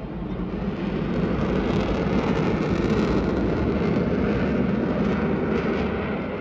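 Aircraft passing by: engine noise swells about a second in and eases toward the end.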